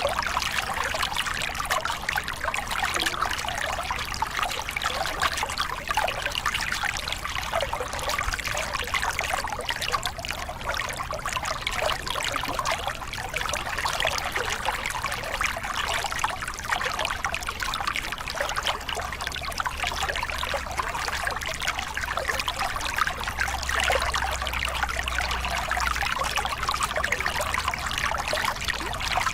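A small river cascade: water spilling and splashing steadily over rocks, with a low rumble underneath that grows stronger in the second half.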